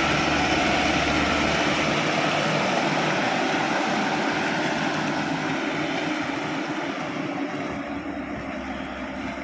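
Mitsubishi Canter 110 PS diesel truck engine running hard under load as the truck climbs a rocky incline. The sound slowly fades over the last few seconds as the truck pulls away.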